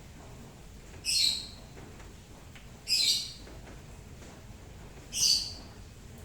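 A bird calling three times, about two seconds apart, each call a short high chirp, over a faint steady hiss of rain.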